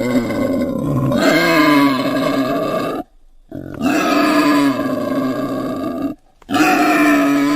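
Animal calls played as separate clips, three in a row, each a few seconds long with brief silent breaks between them.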